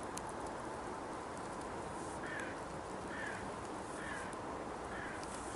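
A bird calls four times, short falling calls about a second apart, starting about two seconds in, over a steady outdoor hiss.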